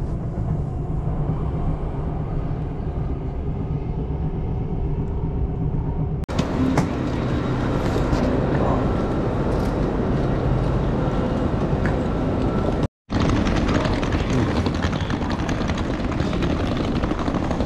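A train running: a steady low rumble and hum heard from inside the carriage. About six seconds in this cuts to the ambience of a large station. Near the end it cuts to a street, where a wheeled suitcase rolls over paving stones.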